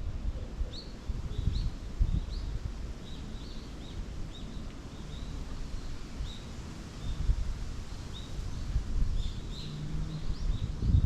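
Small birds chirping in a forest: short, high, upward-flicking chirps repeated every half second or so. Underneath runs a low rumble with irregular thumps.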